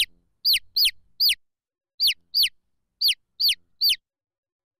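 Baby chicks peeping: about nine short, high-pitched peeps, each sliding down in pitch, some coming in quick pairs, then stopping near the end.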